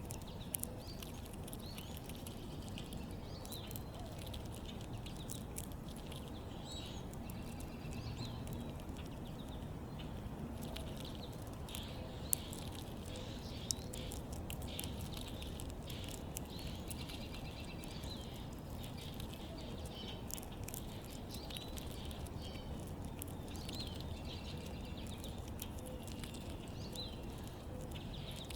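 Small backyard birds chirping with short, high calls throughout, over a steady low background noise, with scattered sharp clicks, the loudest a little past twelve seconds in.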